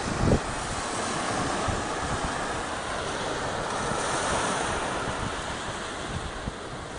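Surf washing on a beach with wind buffeting the microphone, steady throughout, with a brief low thump just after the start.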